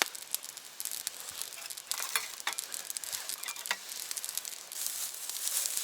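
Campfire crackling, with a few sharper clicks and clinks around the middle.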